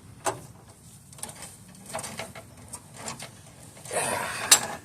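Scattered metal clicks from a breaker bar and socket straining on a rusted bolt, then near the end a short grinding strain ending in one sharp loud crack as something gives way and breaks.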